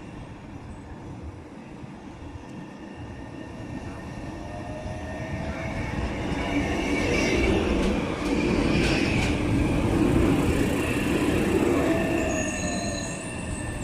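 A Milan tram passing by on street rails, its rumble growing louder to a peak and then fading, with a high wheel squeal from the rails.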